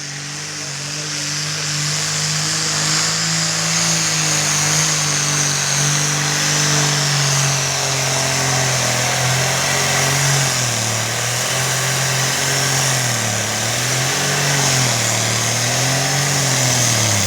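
Pulling tractor's diesel engine running flat out under load, a steady high drone; from about ten seconds in its pitch dips and recovers several times as the revs sag and pick up.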